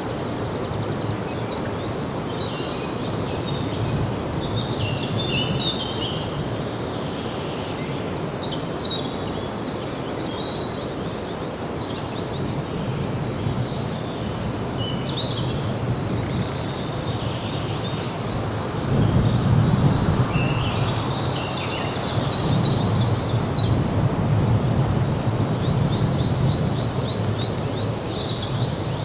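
Several small birds chirping and singing in short trills throughout, over a steady low outdoor rumble that swells louder about two-thirds of the way through.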